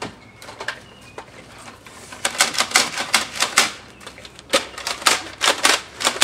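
Rapid-fire shots in two bursts of about six a second, the first about two seconds in and the second about four and a half seconds in, with a few sharper single clicks before them.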